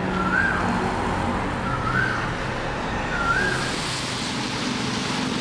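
Steady hiss of rain and wet-road street noise. Three short rising whistled notes come about a second and a half apart in the first half.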